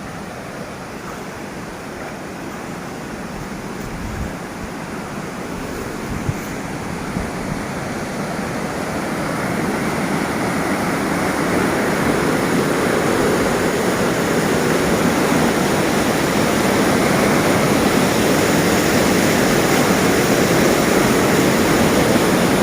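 Rushing water, like a fast stream or river, as a steady roar that grows louder over the first half and then holds, with a few faint knocks a few seconds in.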